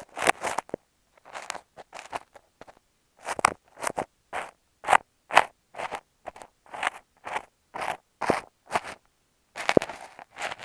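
Kinetic sand scraped and pressed against an earphone microphone in short gritty strokes, about two a second with gaps between. The strokes come faster and closer together near the end.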